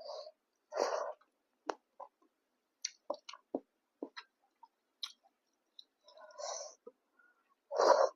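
Close-up eating sounds of a person chewing a meal of rice and curry: wet mouth smacks and chews, with a louder smack near the end and many small sharp clicks in between.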